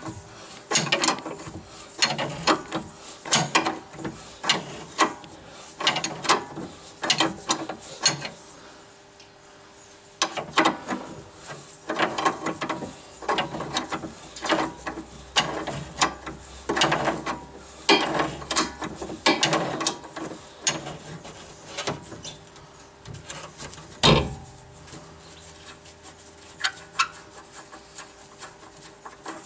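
Hand ratchet wrench clicking in repeated bursts of strokes as nuts are turned on a car's suspension, with short pauses between bursts. A single loud metallic knock comes about three-quarters of the way through.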